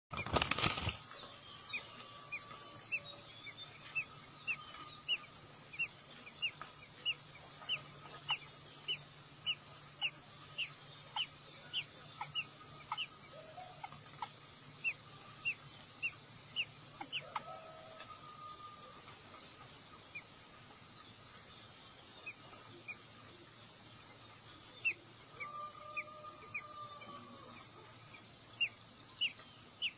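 A bird giving short rising chirps over and over, about two a second with a few pauses, over a steady high-pitched insect trill. A loud click at the very start.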